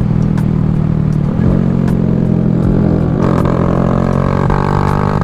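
Small Honda Grom motorcycle engine running under way, its pitch changing about a second and a half in and again from about three seconds in as the throttle and revs vary.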